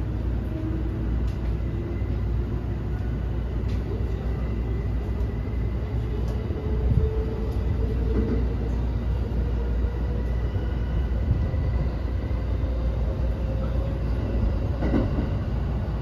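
Inside a JR West 321 series electric commuter train car on the move: a steady rumble of the running gear, with a faint whine slowly rising in pitch as the train picks up speed, and a few light clicks.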